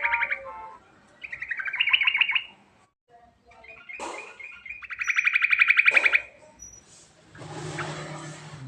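Yellow-vented bulbul (trucukan) song recording: a series of fast trills of rapidly repeated notes, each about a second long and separated by short pauses, ending in a harsher, hissy phrase.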